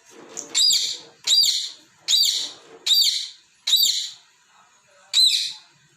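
Pet parrot giving six loud, shrill squawking calls in a quick series, about one every second, with a short pause before the last.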